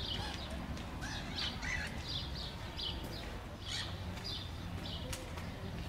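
A small bird chirping steadily, about two short high chirps a second, over a low background rumble.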